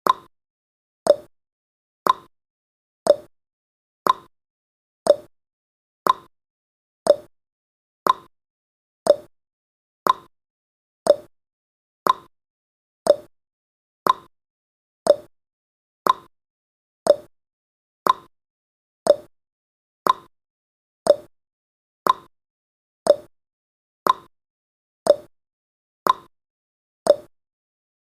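Countdown timer's ticking sound effect: one short, sharp tick every second, evenly spaced like a clock.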